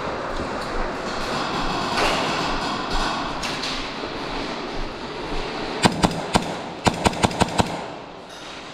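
Airsoft gun firing: three quick sharp shots a little past the middle, then a rapid string of about six more, over a steady background din.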